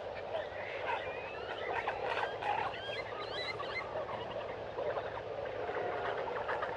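A chorus of many frogs calling at once, typical of tropical rainforest. In the middle of it come a run of short calls gliding up and down in pitch.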